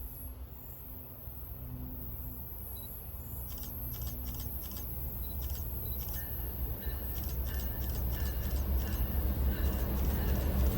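An approaching train's diesel locomotive, a low rumble that grows steadily louder, with faint high ticking over it from a few seconds in.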